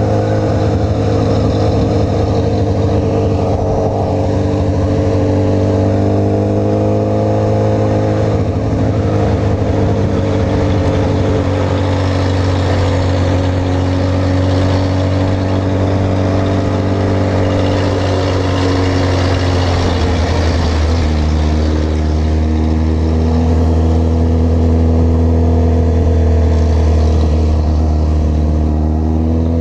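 Honda CB1000R's inline-four engine running under way, its note holding steady, dropping lower about two-thirds of the way through, then rising again near the end as the bike accelerates.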